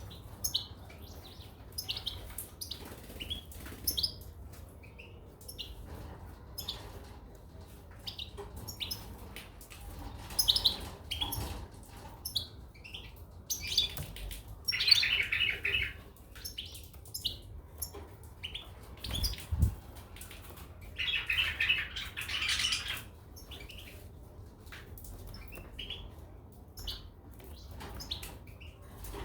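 Caged goldfinches and canaries chirping, with short calls throughout and two longer twittering song bursts, about halfway through and again about two-thirds through. There is a single low thump shortly before the second burst.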